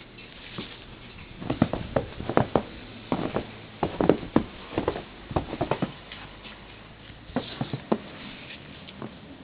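Footsteps crunching through ankle-deep snow: a run of irregular crunches through the middle, a short pause, then a few more near the end.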